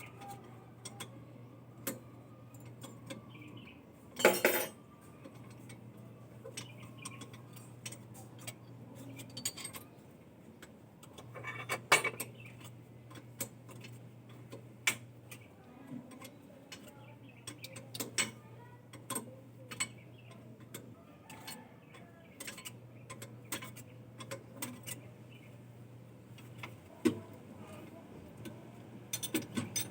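Scattered metal clinks and taps, like tools and metal parts being handled, with two louder clatters. Under them, a low hum switches on and off every few seconds.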